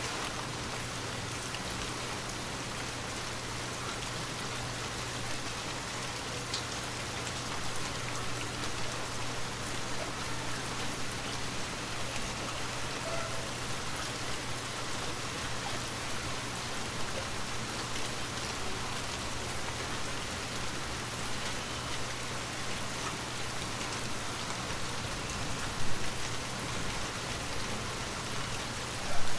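Steady rain falling, an even hiss of drops on surfaces, with two brief louder hits near the end.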